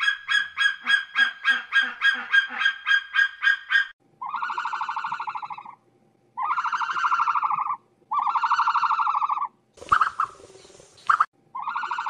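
Bird calls: a rapid run of short, high pitched notes, about four a second, for the first four seconds. Then come long drawn-out honking calls, each about a second and a half, with a short rush of noise between the third and fourth.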